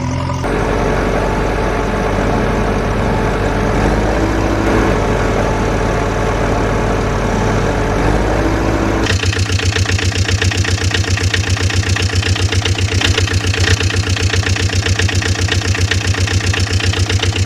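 Diesel engine running steadily. About halfway through it changes to a fast, even chugging idle.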